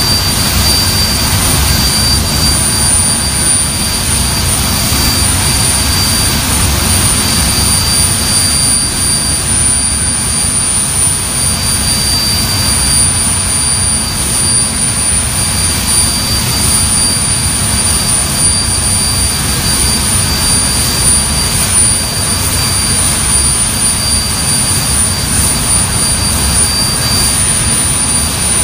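Avro Vulcan bomber's Rolls-Royce Olympus turbojets running steadily during a ground engine run: a loud, even jet noise with a high, unchanging whine on top.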